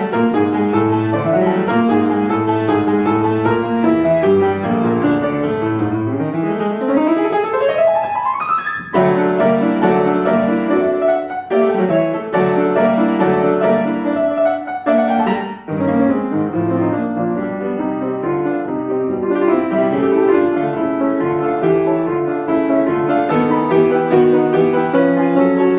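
Piano playing a classical piece. A fast upward run sweeps across the keyboard about seven seconds in and lands on a loud chord, and a shorter rising run follows around fifteen seconds.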